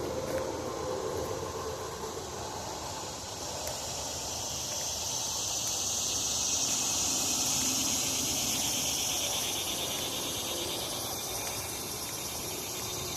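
Insects buzzing in the woods: a high, hissing drone that swells in the middle and then fades, over a steady low rustle.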